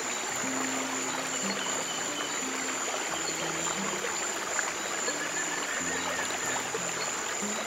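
Stream water running steadily, with slow, soft low piano notes beneath it.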